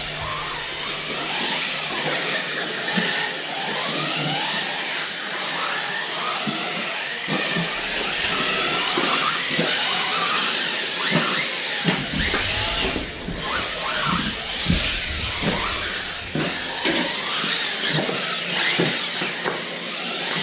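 Several electric RC buggies and trucks running laps, their motors whining, rising and falling in pitch as they speed up and brake, over a steady hiss of tyres and drivetrains.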